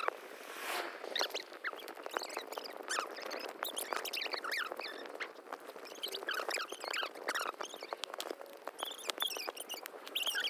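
Small birds chirping, many short high chirps overlapping, with scattered clicks.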